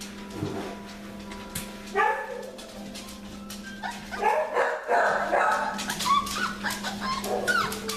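A litter of young puppies chattering: overlapping short, high calls, many falling in pitch, in a burst about two seconds in and again from about four seconds on, over a steady low hum.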